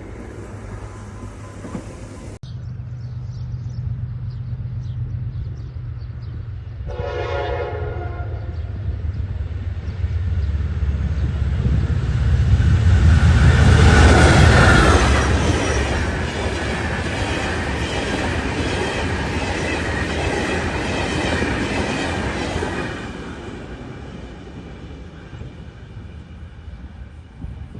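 Diesel-hauled passenger train passing: a short horn blast about seven seconds in, then the locomotive's engine hum and the rumble and clatter of the wheels on the rails, loudest about halfway through and fading away near the end.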